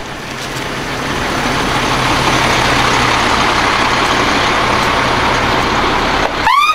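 Steady hiss of a hose spraying water, with a vehicle engine idling underneath as a low hum. A short rising chirp sounds near the end.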